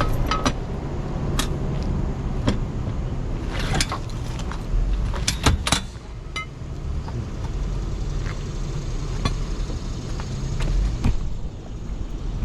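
Tow truck engine idling steadily, with sharp metallic clicks, clanks and jingles of towing gear being handled while a car is hooked up.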